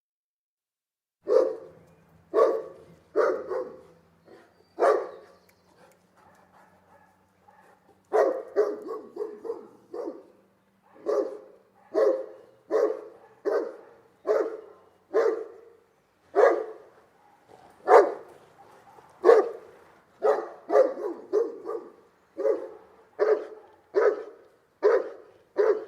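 Saint Bernard barking in deep, loud barks: four barks, a pause of about three seconds, then a long steady run of barks at a little more than one a second.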